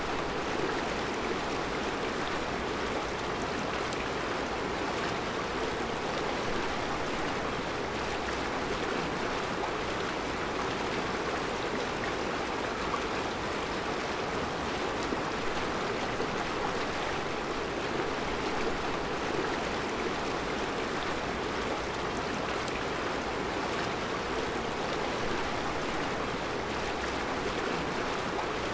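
A mountain river flowing steadily over round rocks in its bed, a constant even rush of water.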